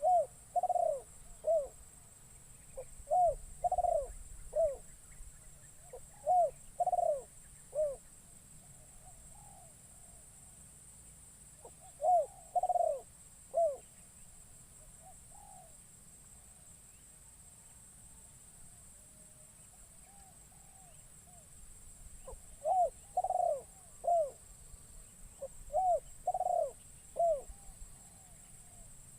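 Spotted dove (terkukur), a caged decoy bird, cooing in short phrases of three or four notes with long pauses between phrases, over a steady faint high hiss.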